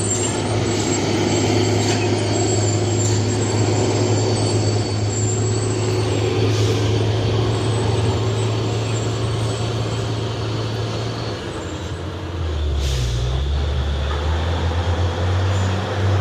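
Heavy diesel truck engine running under load with a steady drone; about twelve seconds in its note drops lower, and a short hiss of air brakes follows.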